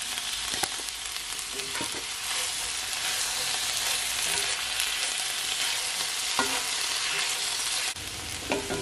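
Cabbage and peppers sizzling in a hot cast-iron skillet as they are stir-fried with a spatula, with a few light clicks of the spatula against the pan.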